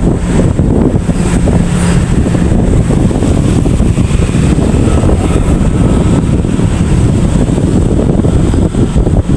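Loud, steady wind buffeting on the microphone over a low rumble, as from a moving vehicle.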